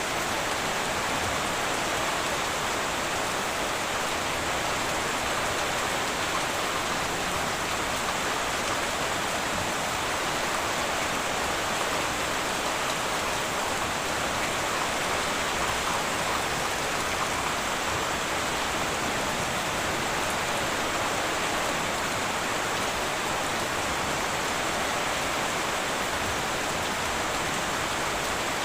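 Heavy rain falling steadily on a tin roof, an even, unbroken hiss of drops with no thunder.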